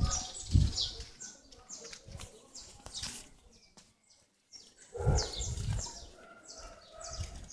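Small birds chirping rapidly in quick series of short, high, downward-sliding chirps, with a few low thumps near the start and again past the middle.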